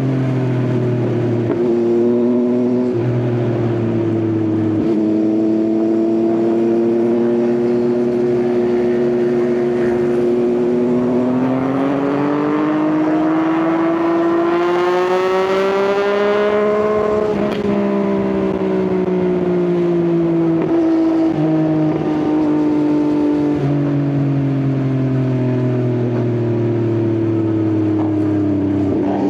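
Yamaha XSR900 inline-triple engine through an Akrapovič exhaust, heard while riding. The revs hold steady, climb gradually to a peak about two-thirds through, then ease off again, with a few sudden steps in pitch.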